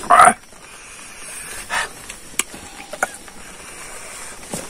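Close-up eating sounds of a man chewing a mouthful of rice and pork. A loud short mouth sound comes at the very start, a smaller one follows under two seconds later, and a few sharp clicks of chewing come after.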